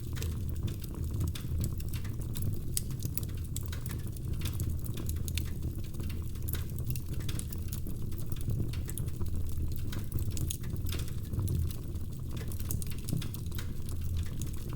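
Logs burning in a fireplace: dense, irregular crackles and small pops over a steady low rumble.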